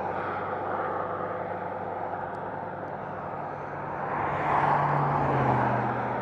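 Highway traffic going by, with one vehicle passing close about four seconds in, its engine note falling slightly as it goes away.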